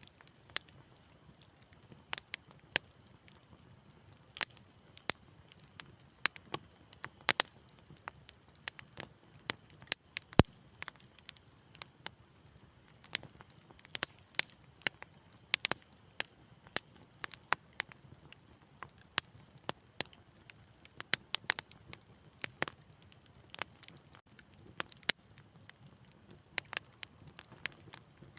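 Wood fire in a fireplace crackling: irregular sharp pops and snaps, several a second at times, over a faint low rumble of the flames.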